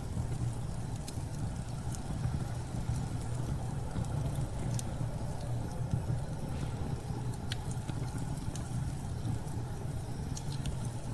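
Wood fire crackling with scattered sharp pops over a steady low rumble of storm wind.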